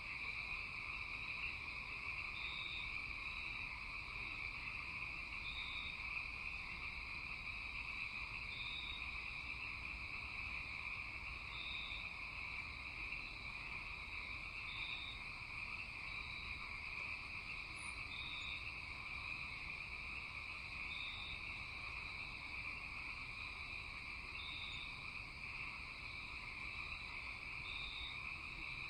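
Night-time chorus of insects and frogs: a steady shrill drone in two pitches, with a short higher chirp repeating about every three seconds.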